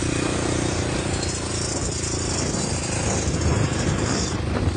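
Yamaha YZ125 single-cylinder two-stroke dirt bike engine running steadily under way, with a constant rush of wind noise over it.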